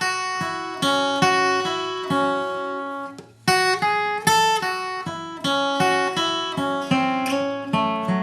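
Acoustic guitar playing a slow single-note bluegrass lead line, each note picked separately, with a short break about three seconds in.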